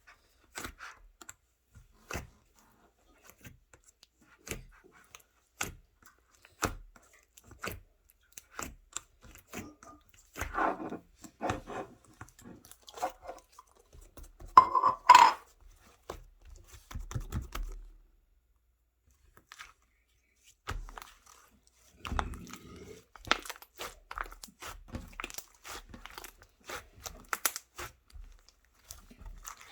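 Packaging being handled and torn: scattered sharp clicks, rustles and crinkles, with a louder scraping sound about halfway through and a denser run of rustling later on.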